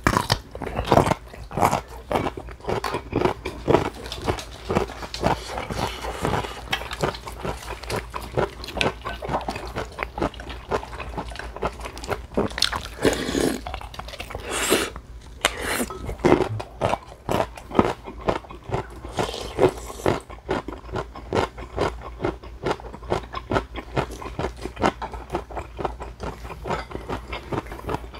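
Chewing and crunching of food close to the microphone, with many short clicks, typical of chopsticks against dishes, and a few longer noisy mouth sounds.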